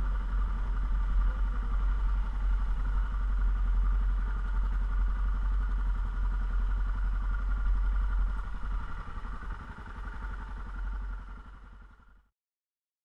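Yamaha XT660Z Ténéré's single-cylinder engine running on the move, with a heavy low rumble. The sound drops away over the last few seconds and then cuts off abruptly.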